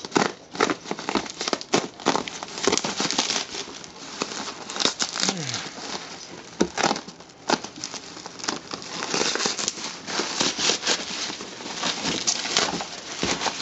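Packaging being cut open and pulled off an engine: irregular crinkling, crackling and tearing of the wrapping, with scattered sharp rustles.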